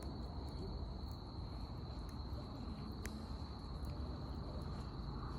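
Crickets chirring steadily at one high pitch over a low background rumble, with a single faint click about three seconds in.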